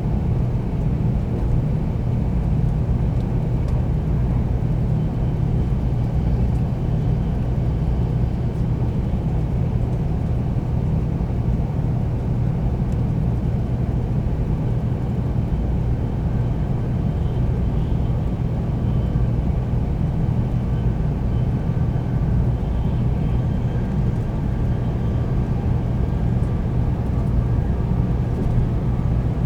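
Steady running noise inside a 300 series Shinkansen Green car while the train runs between stations: a constant low rumble of the wheels and running gear, with faint steady high tones above it that come through a little more in the second half.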